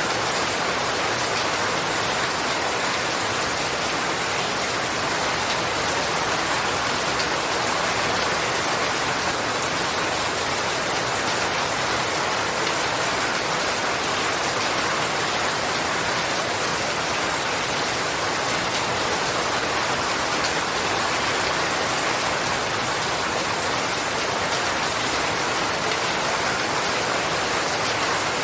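Steady, heavy rain falling, an even unbroken hiss of many drops with no rise or fall.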